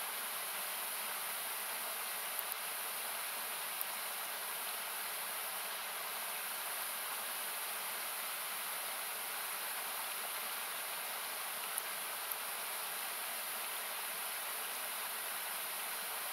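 Steady rushing of a nearby river or waterfall, heard as an even hiss with parts cut by equalizer, and a few faint crackles from a wood campfire.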